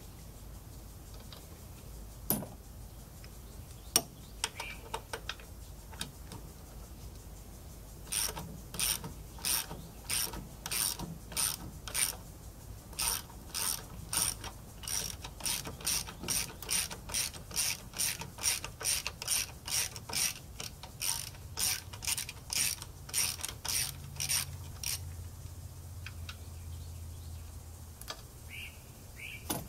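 Ratchet wrench clicking in quick back-and-forth strokes, about two or three a second, for some seventeen seconds, after two sharp knocks near the start.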